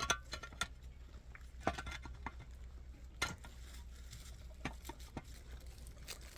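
Scattered light clicks and knocks at irregular intervals, like small hard objects being handled, with a sharper knock about three seconds in.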